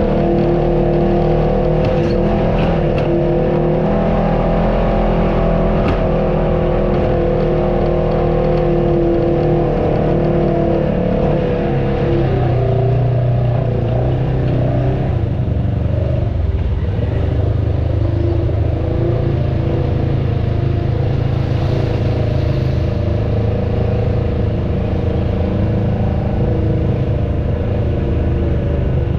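Off-road vehicle engine running steadily on a trail. About twelve seconds in, its note shifts down to a deeper drone.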